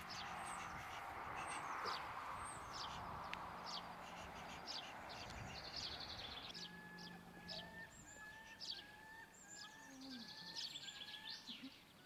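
Small birds chirping and singing, faint, with a soft hiss in the first few seconds and a steady run of short repeated call notes over the second half.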